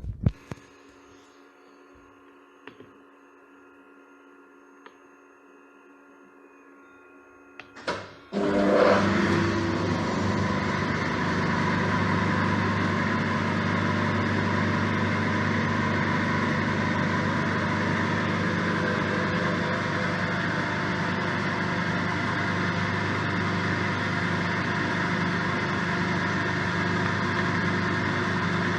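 Kunzmann WF7/3 CNC milling machine: a faint steady hum with a few light clicks, then about eight seconds in the machine starts up with a sudden jump in level and runs on steadily and loudly, with a steady low hum and higher whining tones.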